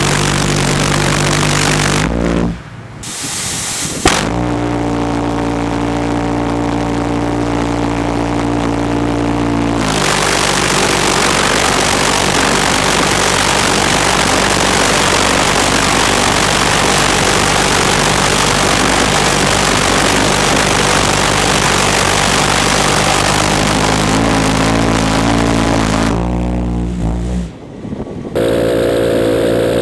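Twin valveless pulsejet engine, two 450-lb units coupled as one 900-lb-thrust engine burning gasoline, firing on a test stand. It alternates between a steady, deep, pitched buzz and a loud, harsh, full-power roar that lasts about fifteen seconds in the middle, with a few abrupt breaks where the sound cuts.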